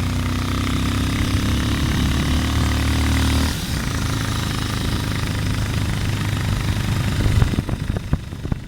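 Motorcycle engine running while riding, with wind and road noise over it; the engine note shifts about three and a half seconds in, and near the end it gives way to uneven knocks as the level falls.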